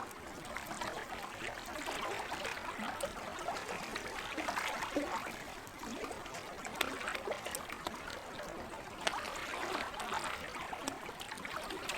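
Lake water trickling steadily, with sharp crackles and pops from a campfire scattered through it.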